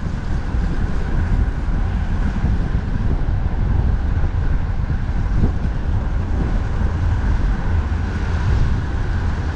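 Strong wind rumbling on the microphone of a moving bicycle, steady throughout, with road traffic noise underneath.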